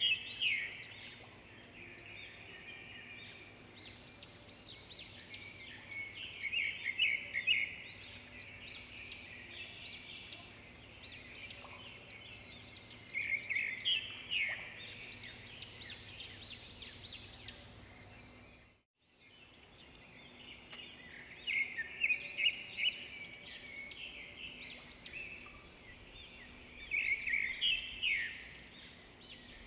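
Birds chirping and singing in quick bursts of high chirps and trills that come in clusters every few seconds over a faint steady background. The sound cuts out completely for a moment about two-thirds of the way through.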